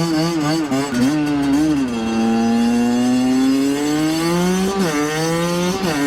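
Motorcycle engine revving: quick throttle blips for the first two seconds, then a steady pull with the pitch climbing slowly, a sharp dip and rise near five seconds, and the pitch climbing again.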